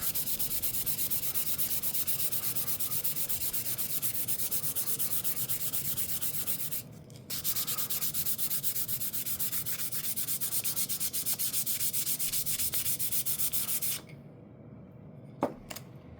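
400-grit sandpaper rubbed back and forth over a violin fingerboard in quick, even strokes, sanding off old glue. There is a short pause about seven seconds in, and the sanding stops near the end, followed by a few light taps.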